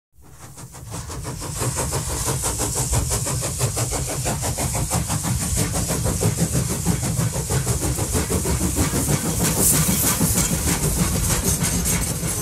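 A train running with a rapid, even clatter over a steady hiss and low rumble, fading in from silence over the first second or two.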